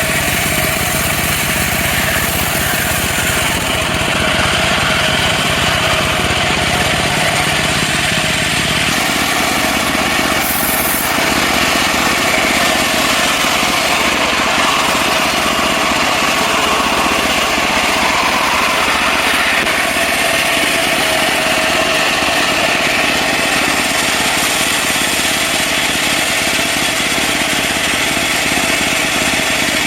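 Engine-driven portable bandsaw mill running steadily, a continuous loud engine sound that shifts in its lower tone about nine seconds in.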